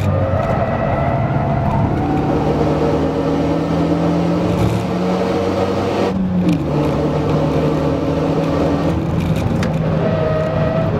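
Renault Mégane RS 250's turbocharged 2.0-litre four-cylinder engine heard from inside the cabin, pulling through a gear at full throttle with the pitch slowly climbing. About six seconds in, a quick upshift drops the revs, and the engine climbs again.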